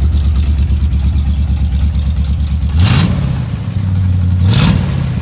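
Ford 351 Windsor V8 in a 1974 Ford F100 idling, then revved lightly twice, about three seconds in and again near the end, the pitch rising quickly each time. It is running again after a seized-starter problem was cured with a new starter.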